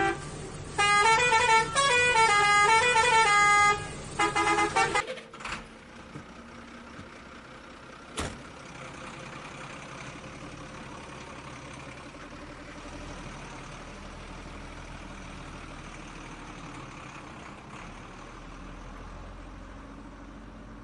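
A loud tooting horn-like tune of several changing notes for about three seconds, then a few short toots. After that there is a faint steady hum with a single click.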